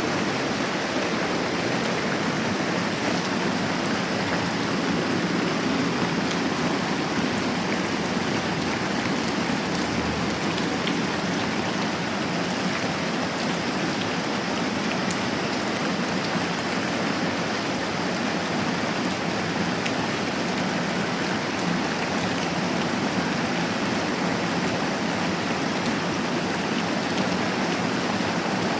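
Moderate rain falling steadily, an even hiss with a few faint ticks.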